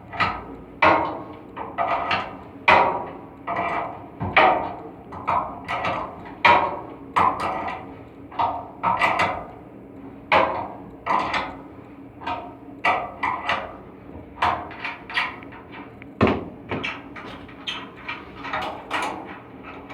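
Irregular metallic knocks, one or two a second, each with a short ring: tools striking metal on an air handling unit's blower assembly during a V-belt change.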